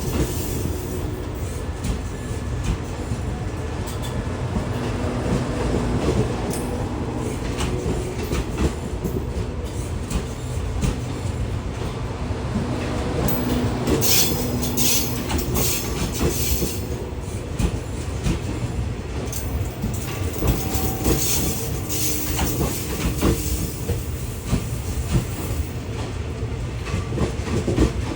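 Train running on the rails with a steady low rumble and wheels clattering over the rail joints. A brief high-pitched hiss or squeal comes about halfway through.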